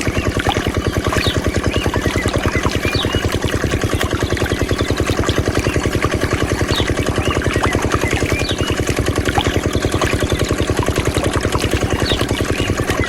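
Small diesel engine driving a water pump, running steadily with a rapid, even low pulse. Faint short high chirps sound over it now and then.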